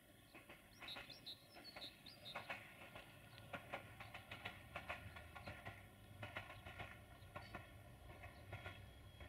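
Faint chirping of small birds: many short chirps, a few sliding down in pitch, over a faint low steady rumble that comes in about a third of the way through.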